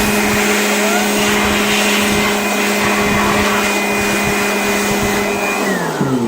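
Electric dust blower running steadily with a loud rush of air and a motor whine, blowing dust out of a graphics card. Near the end it is switched off, and its whine drops in pitch as the motor spins down.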